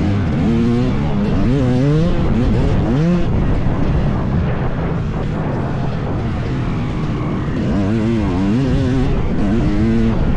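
Two-stroke dirt bike engine revving hard under riding. Its pitch rises and falls in quick sweeps, steadies for a few seconds in the middle, then sweeps again near the end, over a steady rushing noise.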